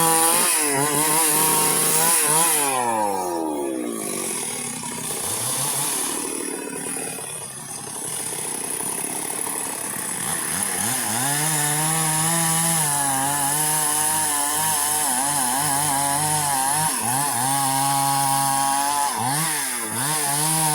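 Two-stroke chainsaw running at high revs, cutting wood. About two seconds in its pitch falls and it runs lower and quieter for several seconds, then it climbs back to a steady high speed, dipping briefly twice near the end.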